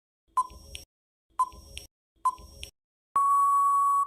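Quiz countdown timer sound effect: three short beeps about a second apart, then one long steady beep of about a second that ends the countdown.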